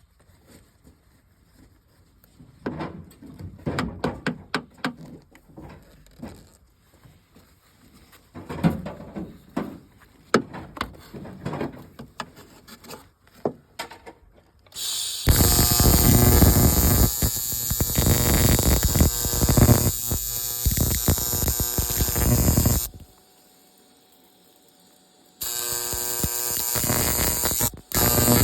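Metal parts knocking and clanking as they are handled, then a welder's arc crackling in bursts that start and stop abruptly: one long weld of about eight seconds, a shorter one, and a brief tack near the end.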